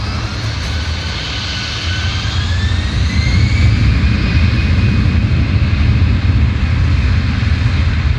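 Jet airliner passing close. Its engine rumble grows louder over the first few seconds and then holds, while a turbine whine slides in pitch above it.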